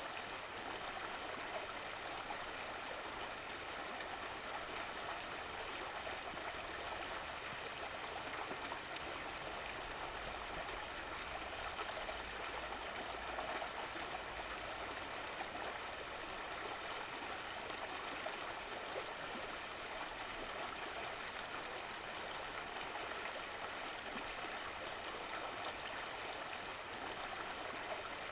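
Stream of running water flowing and gurgling steadily.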